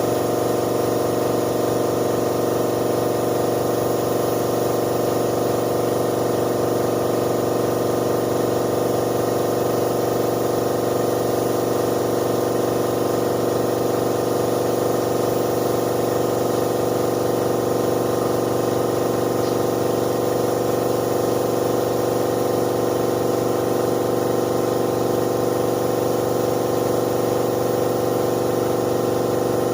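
Air compressor for spray painting running steadily with an even hum that does not change.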